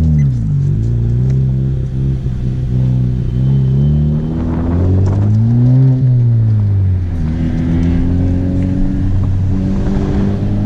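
Honda Civic Type R's turbocharged 2.0-litre four-cylinder engine heard from inside the cabin, revving up and down several times. It is highest about six seconds in, then settles into a steadier, slowly climbing pull.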